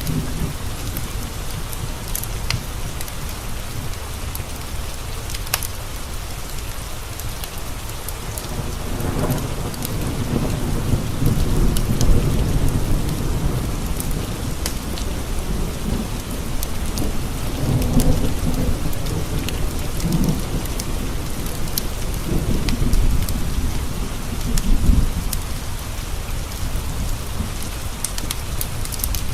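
Steady rain pattering on window glass, with scattered sharp ticks. Low thunder swells in about eight seconds in and keeps rolling in waves, loudest near twelve, eighteen and twenty-five seconds.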